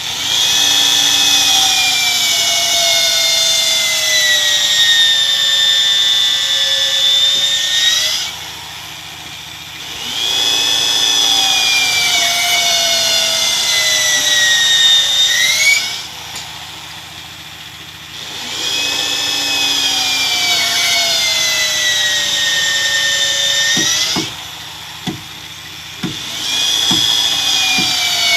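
Handheld electric power tool working wood in four runs of several seconds each. The motor's whine sags in pitch under load and rises again as the tool is eased off. A few sharp knocks come in the pause near the end.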